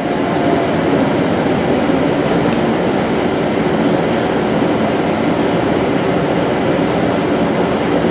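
Steady engine and road rumble heard from inside a bus under way, rising a little just as it begins and then holding level.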